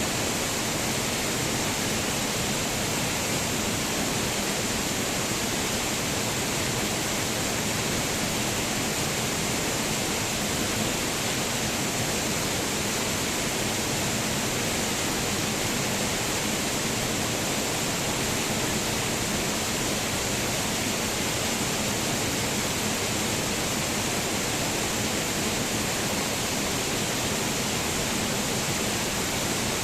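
Waterfall: a steady, unbroken rush of falling water with a strong hiss.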